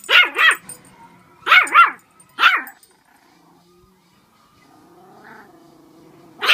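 Dog barking at her own reflection in a mirror: about six sharp barks in quick groups of three, two and one, a pause, then another bark at the end.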